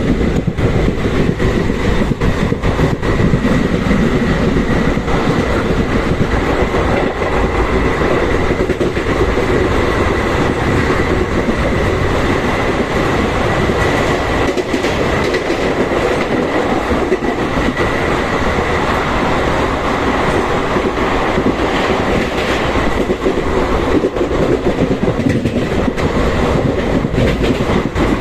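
Express passenger train's coaches running through a station at speed, wheels clattering steadily over the rail joints.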